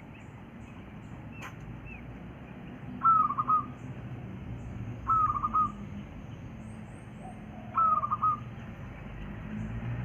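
Wild quail calling three times, each call a short quick run of chirping notes.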